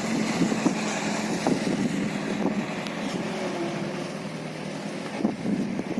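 Diesel dump truck engine running on the road, a steady hum that eases off mid-way and grows louder again near the end.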